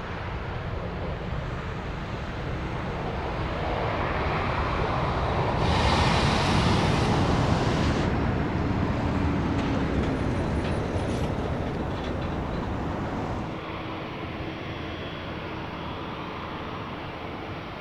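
Jet airliner engine roar as an aircraft passes, swelling to its loudest about six to eight seconds in and then easing off.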